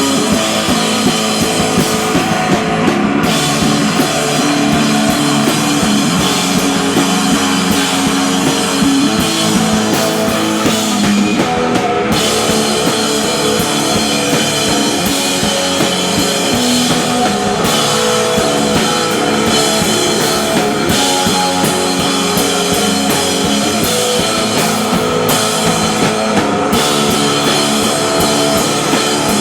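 Live rock band playing loudly with distorted electric guitar and a drum kit, in a steady, dense wall of sound.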